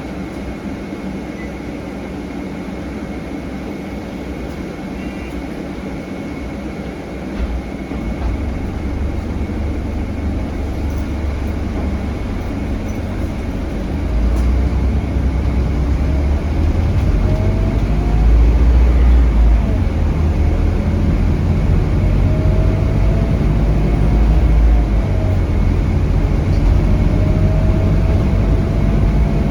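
Scania DC9 five-cylinder diesel engine of a Scania K320HB bus, heard from on board as a low rumble. It runs harder about seven seconds in and harder again about fourteen seconds in, as the bus gathers speed. A faint whine rises and falls in the second half.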